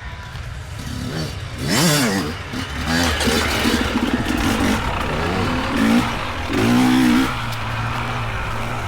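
Dirt bike engines revving up and down as riders work along the trail, the pitch rising and falling several times, with a fast rising rev about two seconds in.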